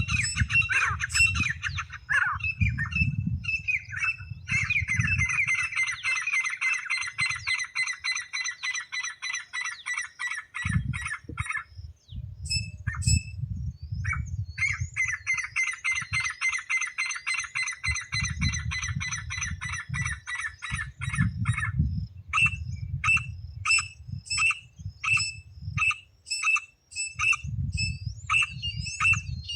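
Francolin (teetar) calling: long, fast trains of shrill repeated notes, several a second. The train breaks off a little before halfway and starts again, then gives way to single notes spaced a little under a second apart near the end. Bursts of a low rumble come and go underneath.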